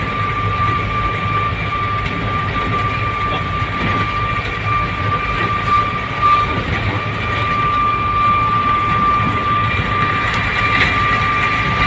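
Truck running on the road uphill: a steady low engine and road rumble with a constant high whine over it.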